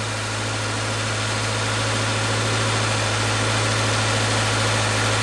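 Subaru Impreza's FB20 2.0-litre flat-four engine idling steadily, a low even hum.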